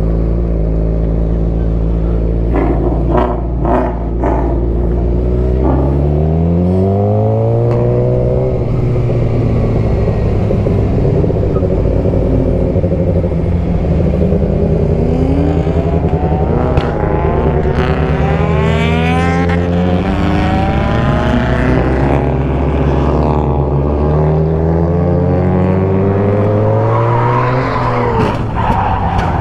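Car engines running loud and being revved hard: the engine note climbs sharply in pitch several times over a steady low drone. A few short pops or clicks sound a few seconds in.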